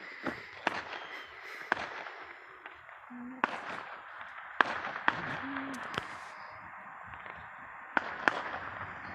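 Fireworks going off: about eight sharp bangs and pops at irregular intervals, the loudest about halfway through and two in quick succession near the end, over a steady hiss.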